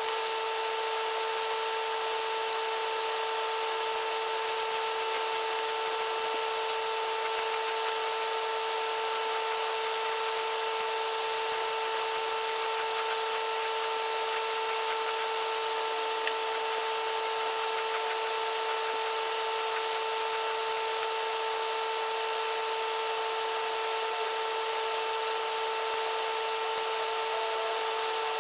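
A small motor running at a steady, unchanging high whine, with a few sharp clicks in the first seven seconds.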